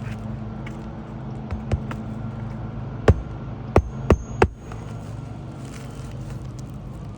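Hammer driving roofing nails through asphalt shingle tabs: two light taps, then four sharp strikes between about three and four and a half seconds in, over a steady low hum.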